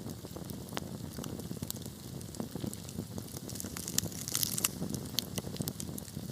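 Wood burning in a fireplace: a steady low rumble of flames under frequent sharp crackles and pops, with a denser burst of loud crackles about four seconds in.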